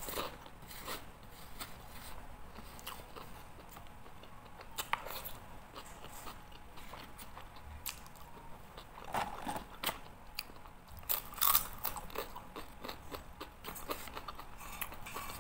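A person biting and chewing crispy fried crackers close to the microphone, with irregular crunches. A few louder crunches come in the second half.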